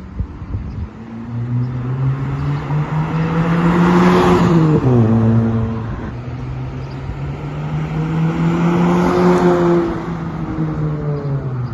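Honda Civic with its muffler deleted driving past, its exhaust note rising as it approaches. The pitch drops as it passes about five seconds in. The note swells again near the end.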